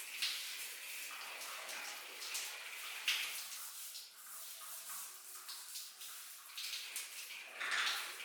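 Water running and splashing, with a few sharper splashes or knocks.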